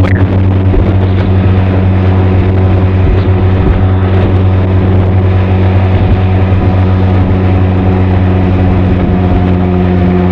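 Benelli TRK 502's parallel-twin engine and exhaust running at a steady, unchanging pitch.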